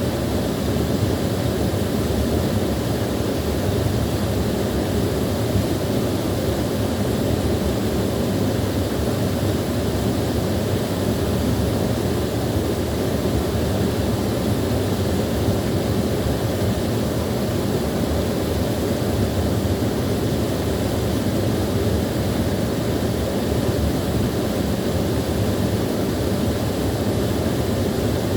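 Small waterfall with water rushing steadily, a deep even rush that doesn't change.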